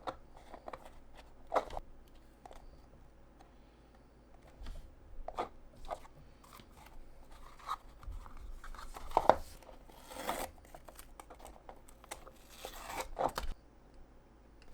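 Close-up crafting sounds: a thin material being handled and torn, with scattered light taps and a couple of longer rustles, one about two-thirds of the way through and one near the end.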